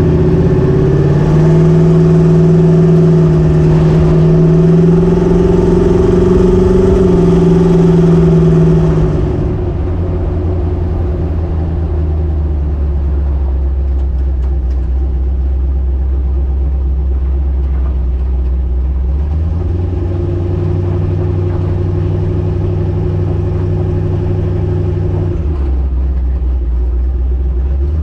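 Twin-turbo LS V8 in a Chevy S10 running at a steady higher speed, then dropping to a lower, steady drone about nine seconds in, heard from inside the truck's cab.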